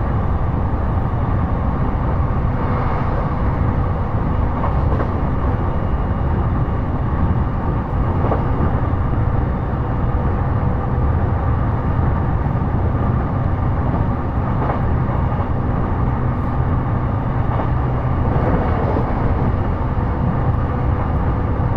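Inside a JR East E233 series electric commuter train running along the line: a steady low rumble of the wheels on the rails and the car body, with a faint steady hum and a few faint clicks.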